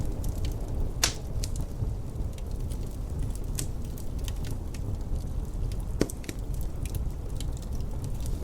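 Wood fire crackling in a fireplace, with irregular sharp pops, two louder ones about a second in and near the six-second mark, over a steady low rumble.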